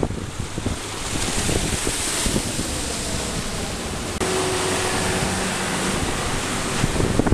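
A rigid inflatable boat running fast: wind buffeting the microphone and water rushing and slapping against the hull, with a faint steady engine tone beneath in the second half.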